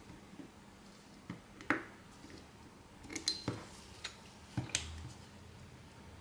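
Small hard clicks and clinks of repair tools and phone parts being handled on a workbench: a sharp tap about 1.7 seconds in, then a run of quicker clicks about halfway through, one with a brief high ring.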